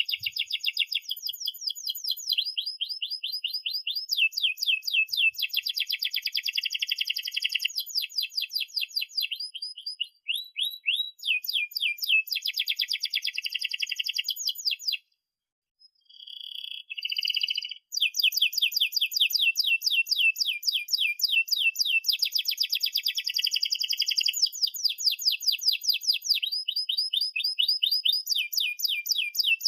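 Domestic canary singing a long song of rapid rolling trills, one fast run of repeated notes after another, with a brief pause about halfway through.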